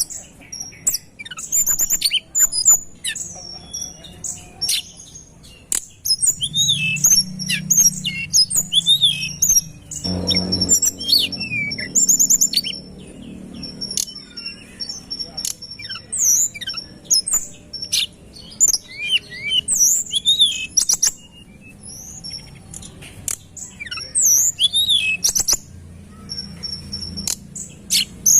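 Tledekan gunung singing busily: dense bursts of high whistled notes, quick trills and short falling swoops, one phrase after another with brief gaps.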